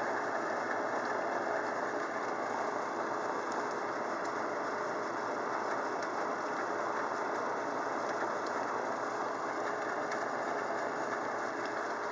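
Steady rain falling in a thunderstorm, an even rushing hiss with a few faint scattered ticks; no thunder.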